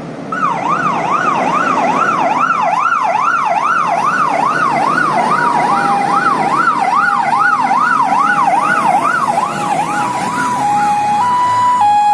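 Sirens of fire engines leaving on an emergency call. A fast rising-and-falling sweep, about two or three cycles a second, is joined about five seconds in by a two-tone high-low siren. The sweep fades near the end, leaving the two-tone, with engine rumble underneath.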